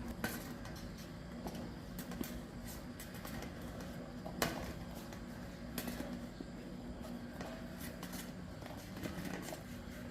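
Scattered light clicks and taps of hand tools and small metal bicycle parts being handled, over a steady low hum.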